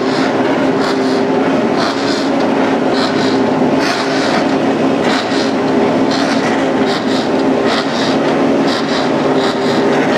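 MotoGP racing motorcycle engines running hard at the race start, a loud, steady wash of engine noise with short higher-pitched surges.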